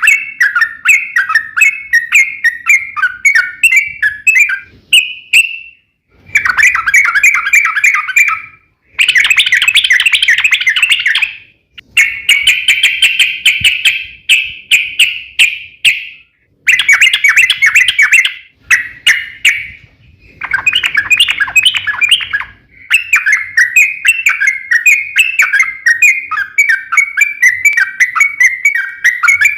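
Yellow-vented bulbul (trucukan) singing long, fast, chattering runs of bubbly notes. The song comes in bouts of a few seconds, broken by brief pauses.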